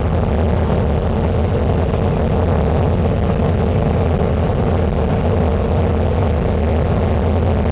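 Steady drone of an airliner's jet engines and rushing air, heard from inside the passenger cabin, with a constant low hum underneath.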